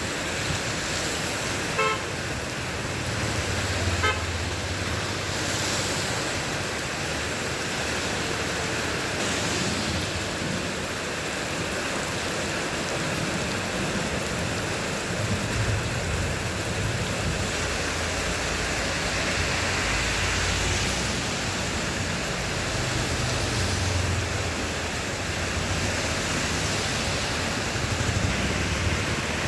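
Heavy rain falling steadily over road traffic, with vehicles rumbling past and two short horn toots about two and four seconds in.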